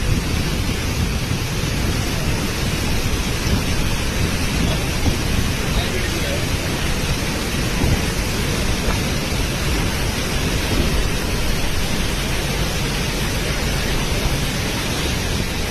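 Steady, loud rush of a storm: heavy rain and strong wind, with the wind buffeting the microphone.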